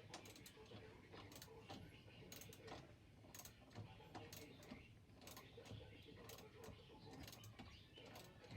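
Faint, irregular metallic clicks and ticks of hand tools tightening a truck battery's hold-down clamp.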